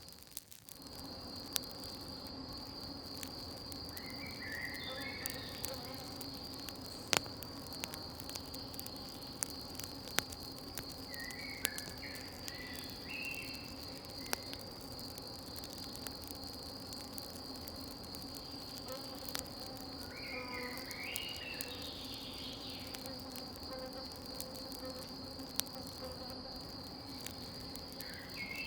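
Campfire crackling with scattered sharp pops, over a steady high chirring of crickets; a few short chirps come and go in between.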